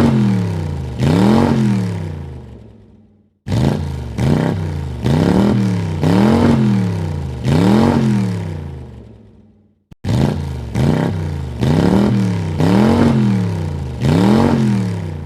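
Car engine revved in a series of quick throttle blips, the pitch jumping up and falling back with each one, about four to six blips per run. The runs fade out and restart abruptly twice, about three seconds in and about ten seconds in.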